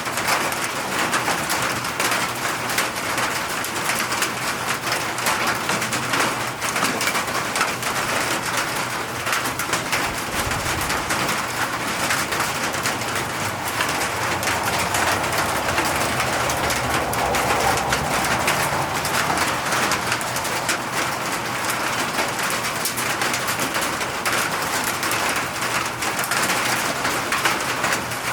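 Steady rain falling, a continuous hiss dense with individual drop hits, while a dove coos in the background.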